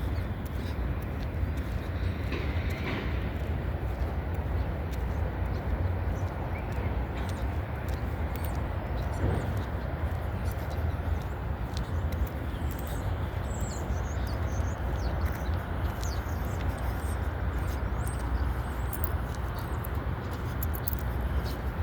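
Freight train cars rolling past: a steady low rumble with scattered sharp clicks of wheels on rail.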